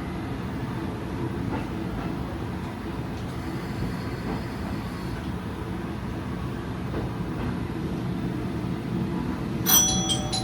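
Diesel railcar running along the track, a steady low rumble of engine and wheels heard from the cab. Near the end a ringing, bell-like chime starts, repeating about three times a second.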